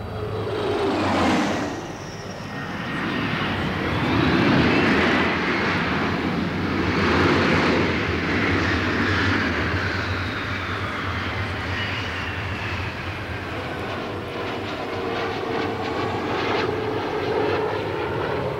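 Aircraft engines running past, a loud whine with noise that swells and fades. Its pitch falls sharply about a second in, then rises and falls again several times as aircraft go by.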